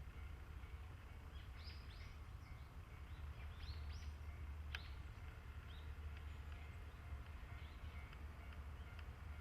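Small birds chirping: a run of short, quick chirps in the first half, over a steady low rumble.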